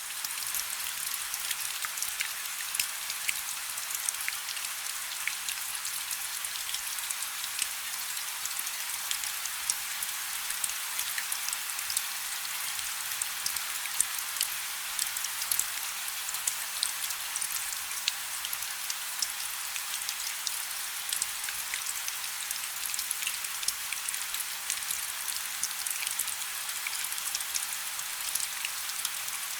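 Light rain falling steadily, with many separate drops ticking on a surface over a soft hiss and almost no low rumble.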